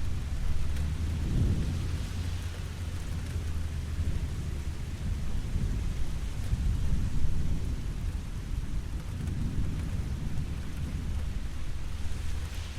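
Steady rain falling, with distant thunder rumbling low underneath. The rumble swells a little near the start and again about six to seven seconds in.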